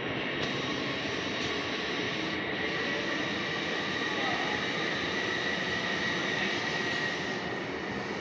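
A train running at the station: a steady rushing noise with a steady high whine.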